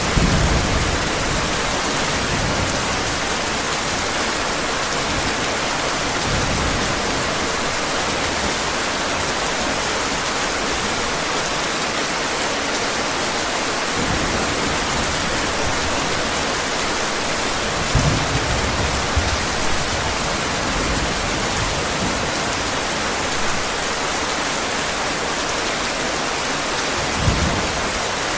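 Steady heavy rain pouring down, with several low rumbles of thunder, near the start, about a quarter of the way in, about two-thirds through and near the end.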